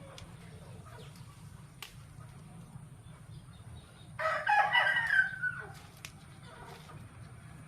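A rooster crowing once, about four seconds in: a single cock-a-doodle-doo lasting about a second and a half, its pitch falling at the end.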